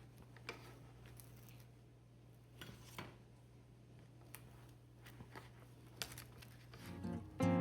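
Faint kitchen handling sounds: scattered light clicks and scrapes of food and dishes being handled, over a low steady hum. Acoustic guitar music swells in near the end.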